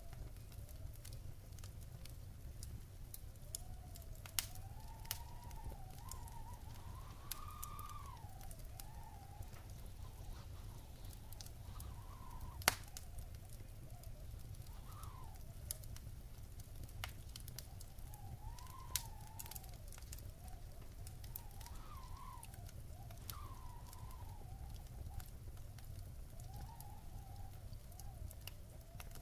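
Wood fire burning in a fireplace: a steady low rumble of flames with scattered sharp crackles and pops, one much louder pop about halfway through. A faint wavering whistle rises and falls in slow swells over the fire.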